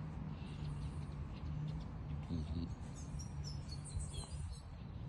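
Birds chirping in a quick cluster of short, high calls from about three seconds in, over a steady low background rumble.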